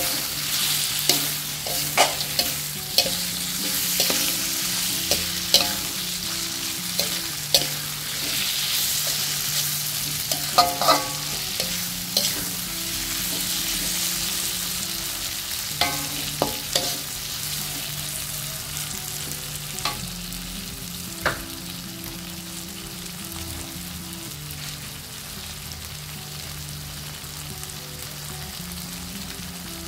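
Eggs, tomato and onion sizzling in an aluminium wok while a metal spatula stirs and scrapes them, clinking against the pan. The clinks stop about two-thirds of the way through and the sizzling goes on, slowly getting softer.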